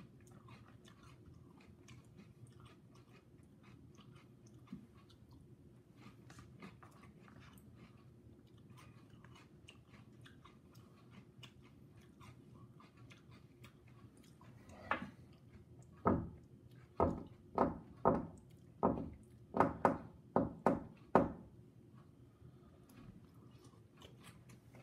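A person chewing crunchy cereal from a paper cup, with faint spoon clicks. About halfway through comes a run of about eight loud short sounds, roughly one a second, before it quiets again.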